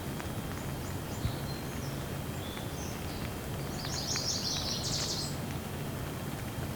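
Steady gentle rain with scattered drip clicks, and a small bird chirping through it, with a quick run of louder chirps about four to five seconds in.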